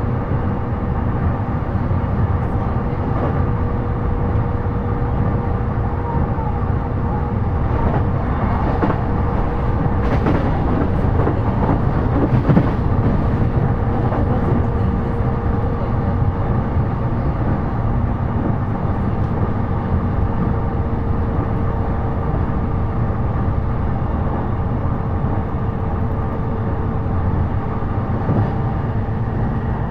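Cabin sound of a JR East E233-series electric commuter train running at speed: a steady rumble of wheels on rail with a thin, steady whine over it.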